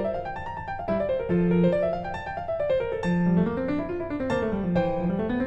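Background piano music: quick runs of notes rising and falling over a lower moving line.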